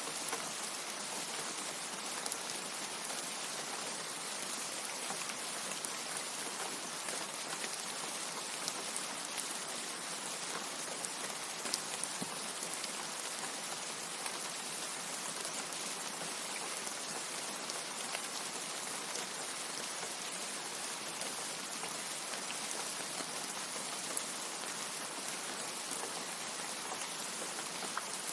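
Steady rain falling: a dense, even hiss with scattered sharp drop ticks and no change in strength.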